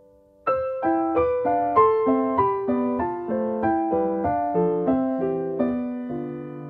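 Background piano music: a faint held chord, then from about half a second in a melody of single notes, about three a second, each struck and fading, settling onto a held low chord near the end.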